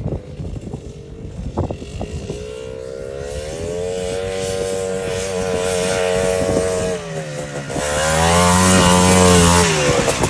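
Quad bike engine running at a steady pitch and growing louder. It dips briefly about seven seconds in, then comes back louder near the end. A few light knocks come in the first two seconds.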